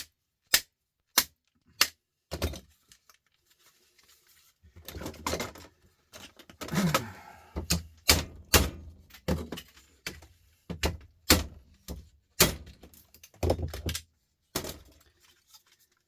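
Repeated sharp knocks and clatter as the plastic housing of an old electric sander is forced apart by hand for scrap. There are knocks about twice a second at first, a pause, a few seconds of scraping and rattling, then another steady run of knocks.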